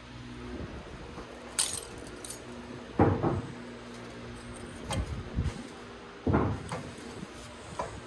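Metal tools and parts being handled in a workshop: a handful of separate clinks and knocks, the loudest about three seconds in and again past six seconds, over a steady low hum.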